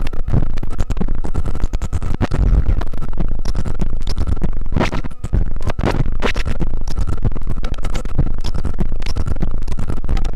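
Soma Lyra-8 analogue drone synthesizer making noise: a dense stream of rapid crackling clicks over a deep low rumble and a thin steady high tone. The sound briefly drops out about five seconds in.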